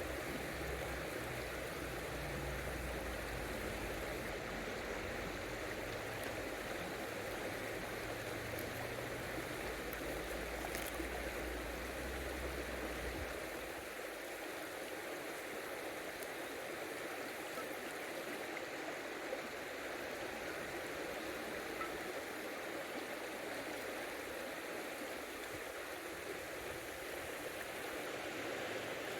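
Steady rush of river water flowing over stones. A low rumble underneath stops about halfway through.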